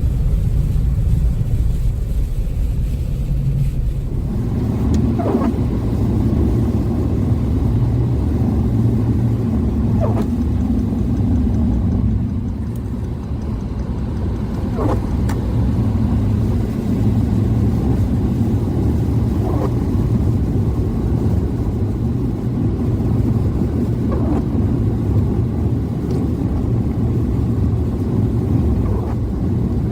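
Cabin noise inside a 2014 Chevrolet Spark EV driving on a winter road: steady low tyre and road rumble with the ventilation fan running for defogging, and no engine sound, as the car is electric. A faint short sound recurs about every five seconds.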